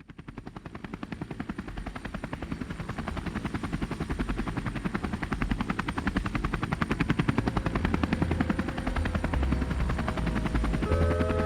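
Helicopter main rotor running with a rapid, even beat of blade pulses over a low engine rumble, growing louder over the first several seconds.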